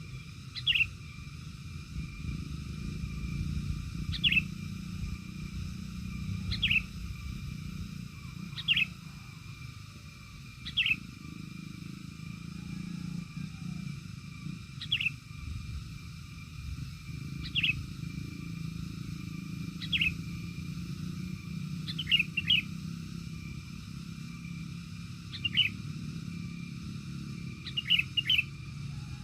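A bird calling with short, sharp downward-sliding chirps, repeated about every two seconds and doubled now and then, over a steady low rumble.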